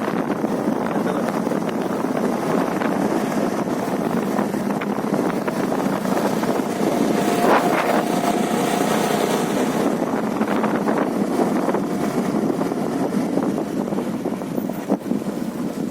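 Steady rushing noise, with a brief tone about halfway through.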